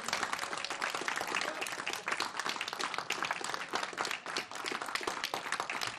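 A roomful of people applauding steadily, dense clapping that swells up just before and holds throughout.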